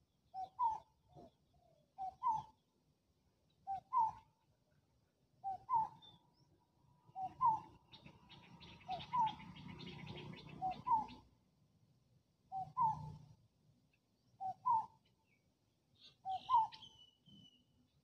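A bird repeats a short two-note call, a lower note then a higher one, about every second and a half to two seconds. A rattling, noisy sound with a low rumble joins in for a few seconds mid-way, and a higher chirp comes near the end.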